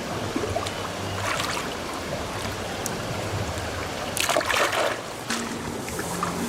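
Water trickling and splashing, with a louder splash about four seconds in.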